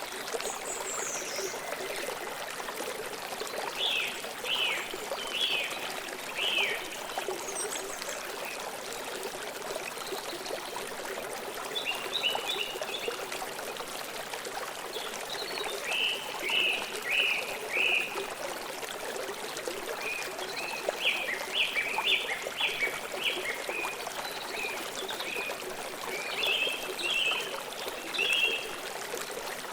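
Steady rush of a flowing forest stream, with a bird singing short phrases of quick chirps about five times, every few seconds.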